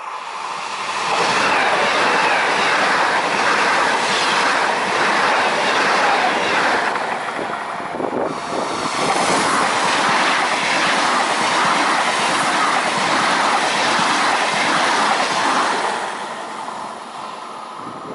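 A high-speed electric train passing close by at speed. Its rush of wheels and air builds over the first second or so, then holds loud and steady with an evenly repeating clatter as the cars go by, and fades over the last two seconds.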